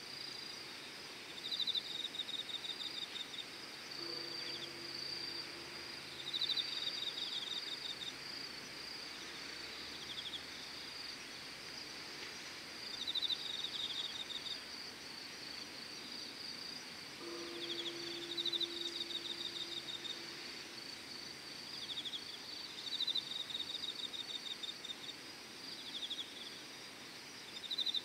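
Evening insect chorus: a steady high-pitched trill, with a second insect repeating short pulsed chirp phrases every few seconds. A faint low hum comes in twice, about four seconds in and again about seventeen seconds in.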